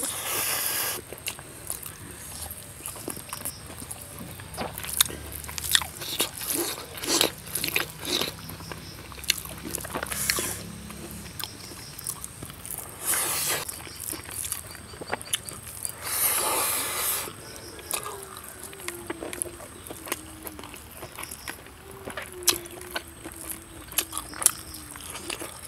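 Close-miked mouth sounds of a person chewing braised pork and rice: wet clicks and lip smacks, with a few longer hissing sounds, the longest about sixteen seconds in.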